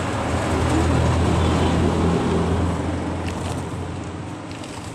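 Motor vehicle engine rumble, swelling to its loudest a second or two in and then fading.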